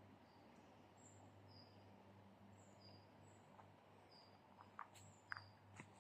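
Faint outdoor ambience with short high chirps repeating about twice a second at two alternating pitches, over a low steady hum. A few sharp clicks come near the end.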